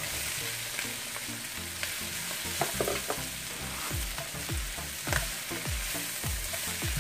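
Sliced mushrooms frying in a hot sauté pan with bell pepper, onion and ginger, sizzling steadily as they are tipped in and stirred with a plastic spatula. From about four seconds in, low thumps come roughly twice a second as the stirring goes on.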